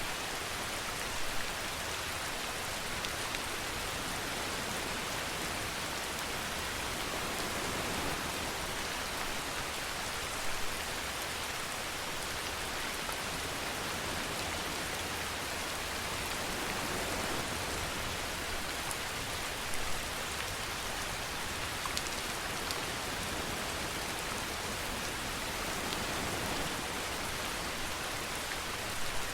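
Steady rainfall with an even hiss, a few louder drops standing out now and then.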